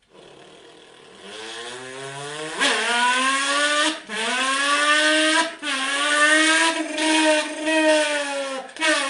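Car engine revving. It starts low, then climbs in pitch and loudness and rises and falls several times with brief drops as the throttle is blipped.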